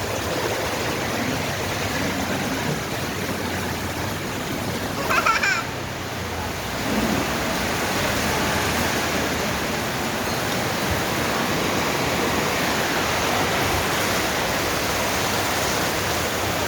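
Steady heavy rain, a loud, even hiss. A brief high, wavering sound cuts in about five seconds in.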